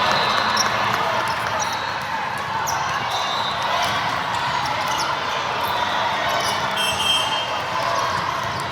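Indoor gym noise during a volleyball match: a steady murmur of spectator chatter, with a few sharp ball hits and brief squeaks of shoes on the court.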